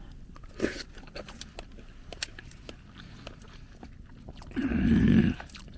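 A person chewing a mouthful of sukiyaki beef dipped in beaten egg, close to the microphone, with many small wet mouth clicks. A short, louder low hum comes near the end.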